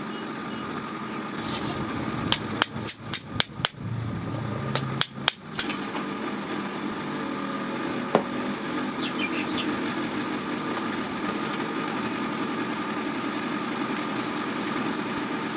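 A quick run of about ten sharp hammer strikes on steel a couple of seconds in, with one more blow a little later, over a steady background hum.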